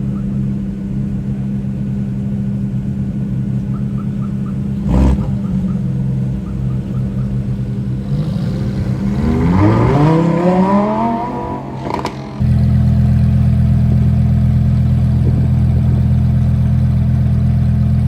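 Car engine idling, then revving up in a rising sweep about nine seconds in, with a single knock around five seconds. From about twelve seconds a loud, steady low drone holds, then cuts off abruptly.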